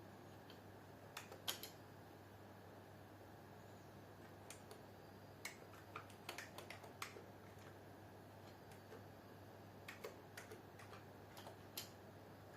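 Computer keyboard keys pressed one by one, irregular keystrokes in a few short clusters, over a faint steady low hum.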